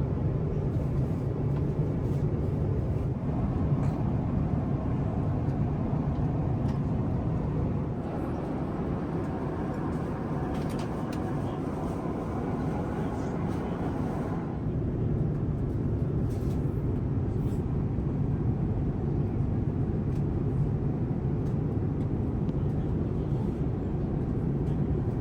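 Steady in-flight cabin drone of an Airbus A350-1000, its Rolls-Royce Trent XWB engines and airflow making an even low rumble, with a few faint clicks. From about eight seconds in, a higher hiss joins it and cuts off suddenly a little after fourteen seconds.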